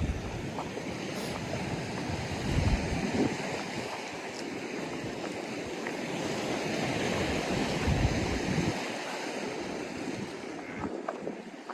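Ocean surf washing against the reef shore in a continuous rushing wash, with wind gusting over the microphone in low buffets, strongest twice in the middle.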